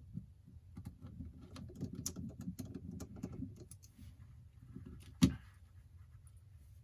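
Quick run of small clicks and taps from hand tools working on a smartphone's internals, with one sharp, much louder click about five seconds in.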